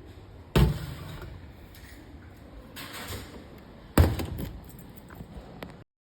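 Two sharp knocks about three seconds apart, each with a short ringing tail; the sound then cuts out suddenly near the end.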